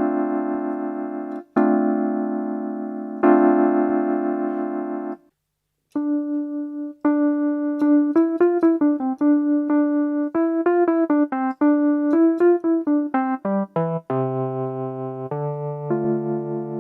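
Electric piano tone on a Casio AiX-engine home keyboard, played as three held chords, then a single-note melody with a falling run, then low chords near the end.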